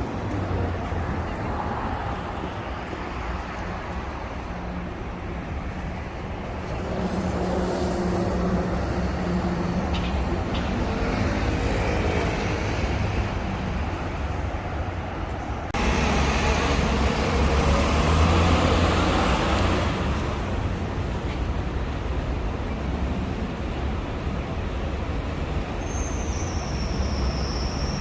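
Manhattan street traffic: cars and buses passing in a steady rumble, with a louder vehicle passing about halfway through and a brief high squeal near the end.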